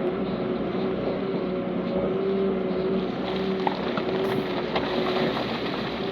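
Heavy diesel earthmoving machinery running steadily, with a few short knocks and clatters.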